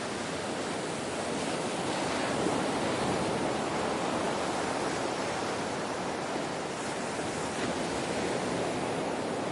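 Ocean waves washing on a shore: a steady rushing surf that swells slightly a couple of seconds in.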